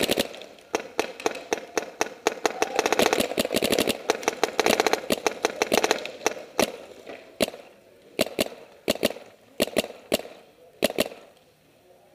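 Paintball markers firing: rapid strings of sharp pops for the first several seconds, then scattered single and double shots that thin out toward the end.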